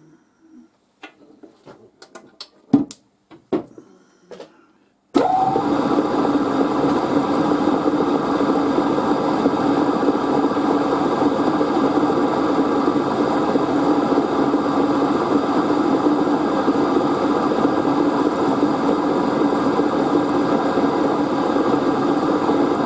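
A few tool-handling clicks and knocks, then about five seconds in a milling machine starts suddenly and runs steadily with a loud hum, slotting a cold-rolled steel part.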